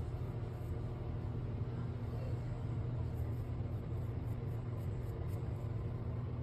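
Steady low hum at an even level, with no clear events.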